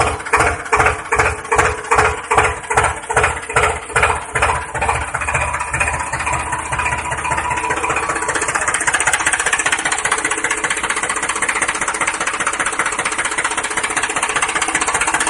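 Small motor of a DIY toy tractor running: a rhythmic pulsing of about three to four beats a second for the first five seconds or so, then a steady whirr with a constant hum.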